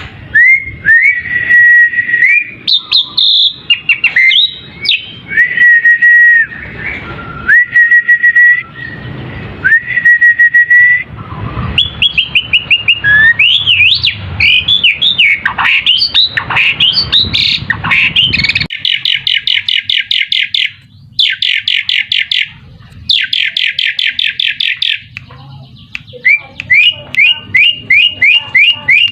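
Asian pied starling (jalak suren) singing a varied song. It mixes clear held whistles, swooping and chattering notes, three rapid buzzy rattles in the second half, and a quick run of short repeated notes near the end.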